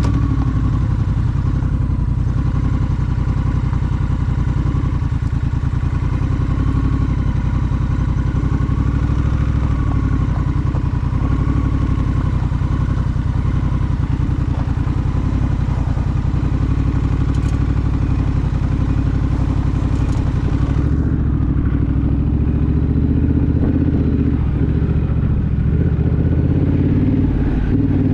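Honda Rebel parallel-twin motorcycle engine running steadily while riding, without clear revving.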